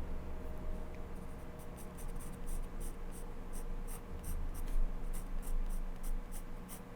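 Repeated short strokes of a drawing tool on paper, about two or three a second, starting about a second and a half in.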